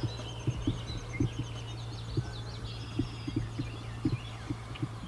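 Songbirds chirping over many short, irregular low pops from the lily pad pond, with a steady low hum underneath.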